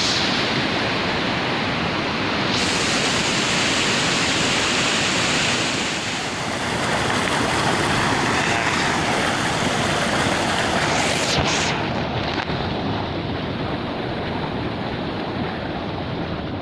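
Steady rushing of river water, a loud even wash; its higher hiss thins out about twelve seconds in.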